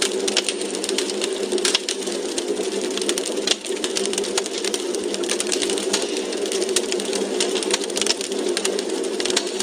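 Wood fire crackling in a fireplace: dense, irregular pops and snaps over a steady low hiss of burning.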